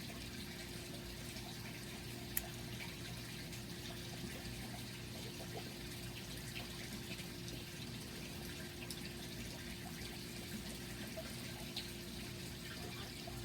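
Steady indoor background hum and hiss with a constant low tone, broken by a few faint ticks, the clearest about two and a half seconds in.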